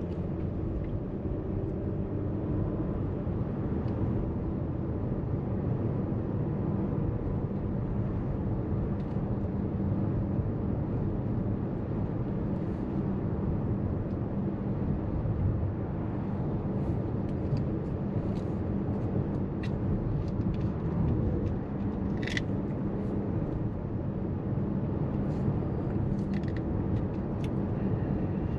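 A car driving along at a steady pace: continuous engine and road noise, with a few faint clicks in the second half.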